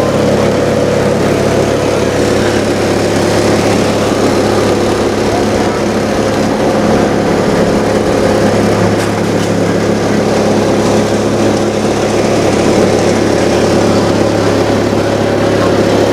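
Loud, steady mechanical drone, a constant engine-like hum that does not change.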